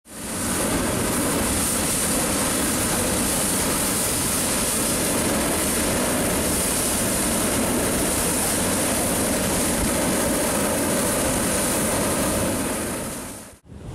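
Hot-air balloon propane burner firing in one long, steady roar with a strong hiss, fading out near the end.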